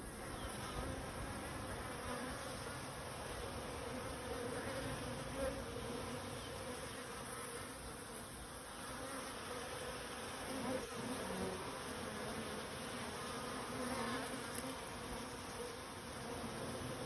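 A large swarm of Russian honey bees buzzing in a steady, dense hum whose pitch wavers slightly.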